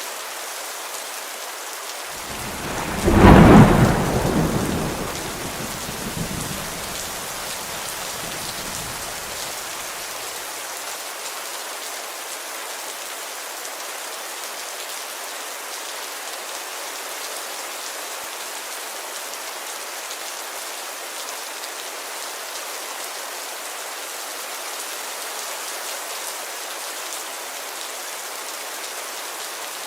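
Heavy rain falling steadily on a window, with a loud thunderclap about three seconds in that rumbles away over the next several seconds.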